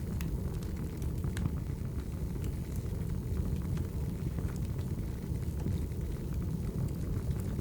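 Firewood burning: a steady low rumble of flame with scattered sharp crackles and pops.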